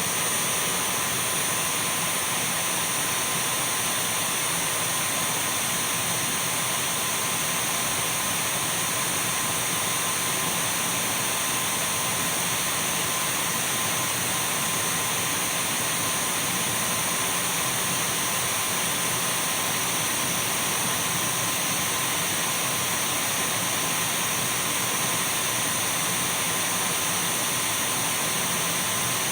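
Dyson V12 cordless stick vacuum running steadily: a constant rush of airflow with a thin, high, unwavering whine from its motor.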